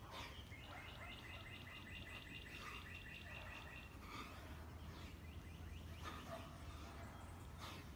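Faint outdoor birdsong: a fast trill of evenly repeated chirps lasting about three and a half seconds, with other scattered bird chirps before and after, over a low steady hum.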